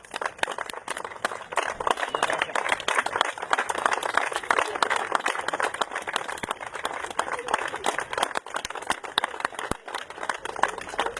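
A crowd applauding: dense, irregular clapping that goes on without a break.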